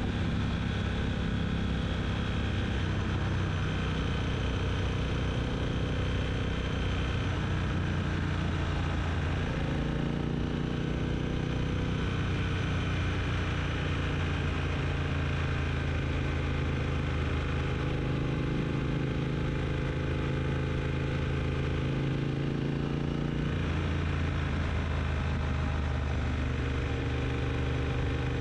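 Triumph T120 parallel-twin motorcycle engine running under way, its pitch shifting twice, about a third of the way in and again near the end.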